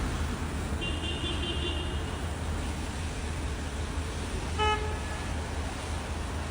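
A motor vehicle running with a steady low rumble. A short horn toot sounds about four and a half seconds in, after a higher pulsing beep about a second in.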